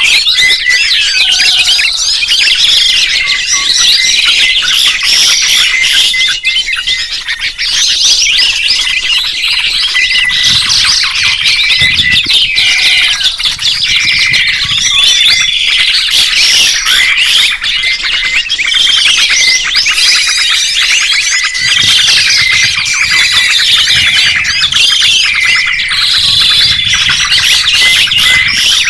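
A chorus of songbirds chirping and singing at once, a dense, unbroken stream of quick trills and short whistles.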